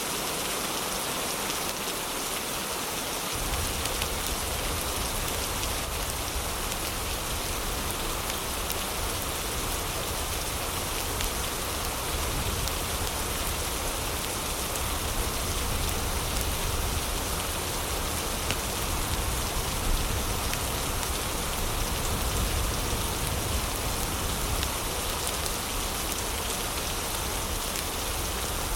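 Steady heavy rain falling, an even hiss and patter. A deep low rumble joins it suddenly about three seconds in.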